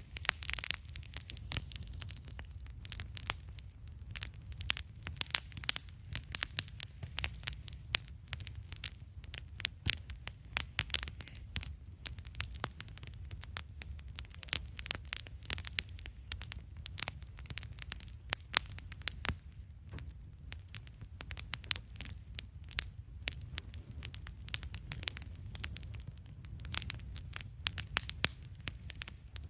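Wood campfire crackling and popping, with many irregular sharp snaps over a low steady rumble.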